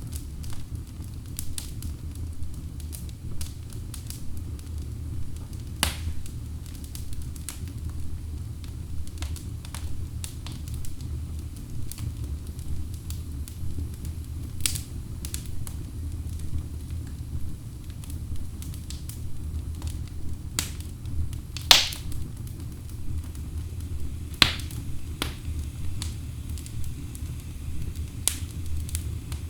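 Wood fire burning in a fireplace: a steady low rumble of flames with irregular sharp crackles and pops from the logs. One pop about two-thirds of the way through is louder than the rest.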